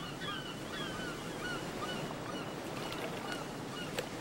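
A bird calling in a series of short, falling notes, about two a second, fading out within the first two seconds, over a steady wash of surf. A single sharp click near the end.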